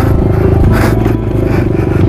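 Yamaha WR250F's single-cylinder four-stroke engine running under throttle off-road, with scraping noise over it, loudest about a second in.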